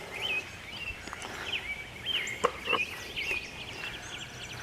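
A bird calling over and over: short wavering, high-pitched chirps, several a second apart.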